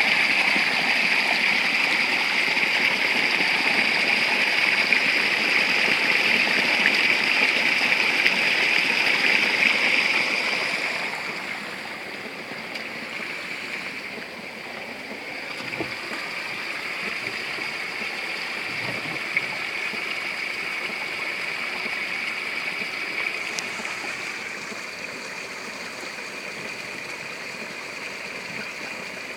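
Spring water running and splashing steadily, loud at first and dropping in level about eleven seconds in.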